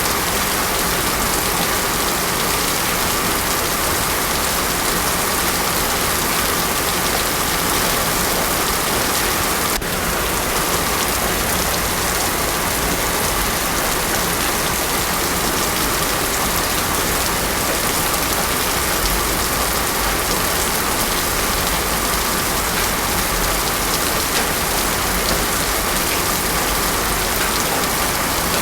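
Heavy rain pouring steadily onto a road, a dense, even hiss with no thunder.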